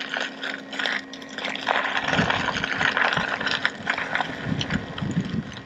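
Electric unicycle's tyre rolling over a wet, muddy trail: a gritty crackling and splashing hiss that swells through the middle, over a steady low hum.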